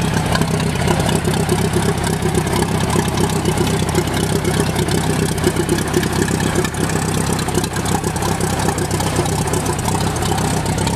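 Old vintage tractor engine running steadily at idle.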